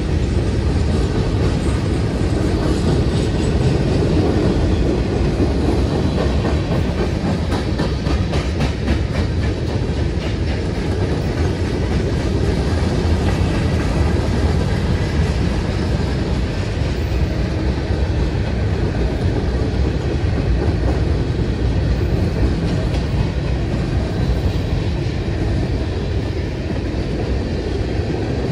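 Freight train's hopper and tank cars rolling past: a steady rumble of steel wheels on the rails with clickety-clack over the rail joints.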